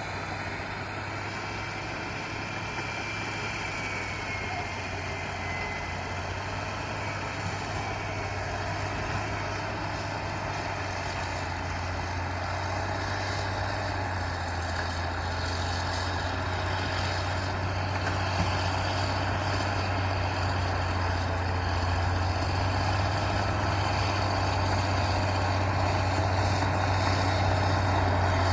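Heavy diesel machinery engine running steadily with a deep, even hum, gradually growing louder.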